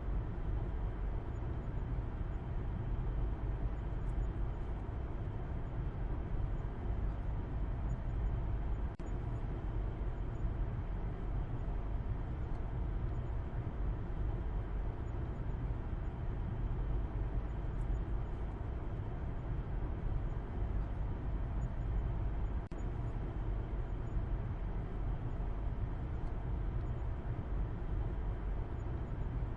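Steady low rumble of a moving car, road and engine noise, heaviest in the bass and unchanging throughout, with two brief dips about 9 and 23 seconds in.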